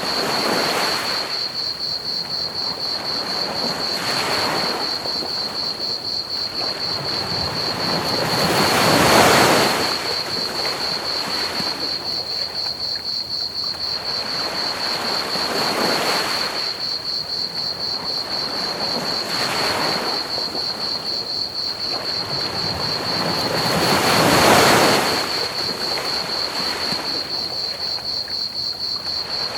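Ocean waves breaking and washing up a beach, swelling every four to seven seconds, the two biggest about a third of the way in and near the end. Under them run a steady, high, rapidly pulsing chorus of chirping crickets and an even bed of pink noise.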